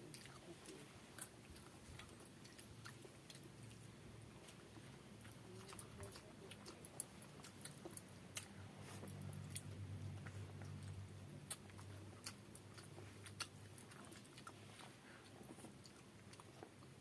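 Close-up eating sounds of a person eating rice by hand: faint chewing and wet mouth clicks, scattered irregularly, with a low hum swelling in the middle.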